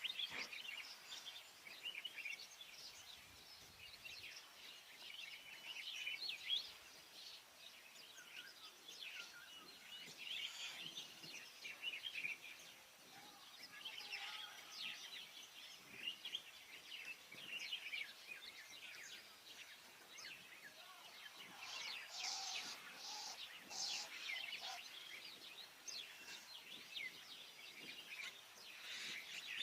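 Many small birds chirping and twittering at once in a faint, continuous chorus of short, high calls.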